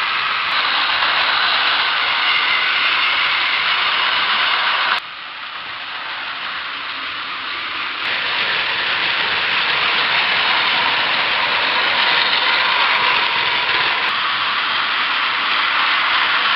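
Battery-powered Plarail toy trains running on plastic track, with a steady whir from the small geared motors. The whir drops suddenly about five seconds in and builds back up over the next few seconds.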